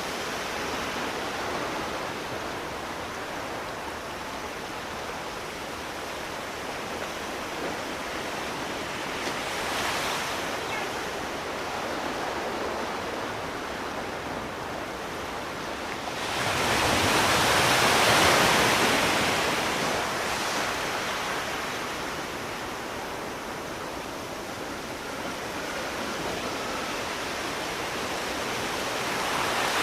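Sea waves on a shore: a steady rush of surf with slow swells, one larger wave building and breaking a little past halfway and fading over several seconds, and smaller surges about a third of the way in and at the end.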